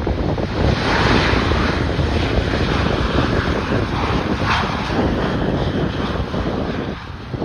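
Aircraft engines running as a plane passes: a broad rushing hiss that swells about a second in and holds, over heavy wind buffeting the microphone.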